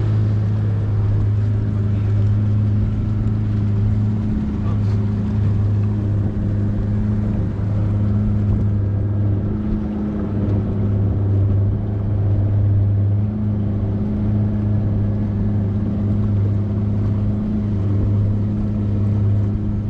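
Motorboat engine running steadily at an even speed, a constant low hum.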